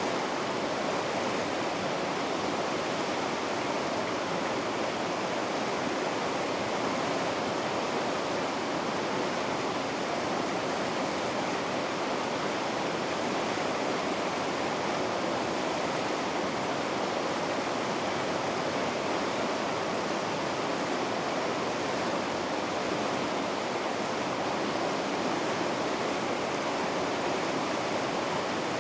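Whitewater of river rapids rushing steadily: an even, unbroken wash of noise with no changes.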